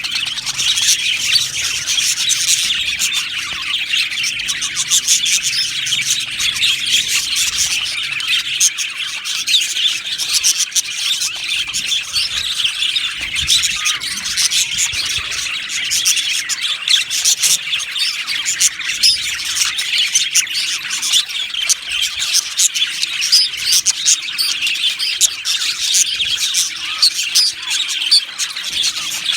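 A flock of budgerigars chattering, with many birds chirping, warbling and squawking at once in a continuous dense chorus.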